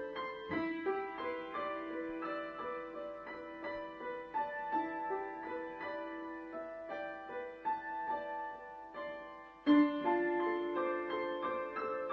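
Background music: a slow piano piece with sustained notes and a loud chord struck near the end.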